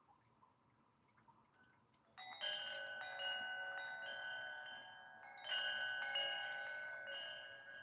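Wind chimes ringing: a cluster of bell-like tones sets off about two seconds in, is knocked again about five and a half seconds in, and rings on, slowly fading.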